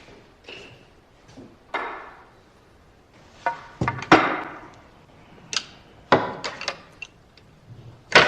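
Snooker balls clacking as cue shots are played: a quick cluster of sharp clacks about three and a half seconds in, the loudest near four seconds, more around six seconds, and one more strong clack near the end.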